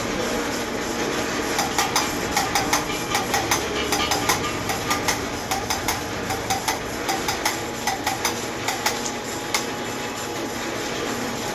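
Light hammer taps on metal, irregular, about two or three a second, over a steady hum.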